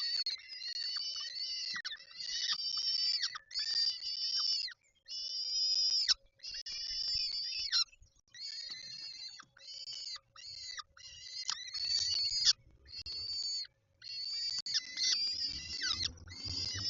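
Peregrine falcon calling in a long run of harsh, drawn-out, high-pitched calls, one after another with short breaks. Under the calls there is a faint steady electrical hum, and a low rumble near the end.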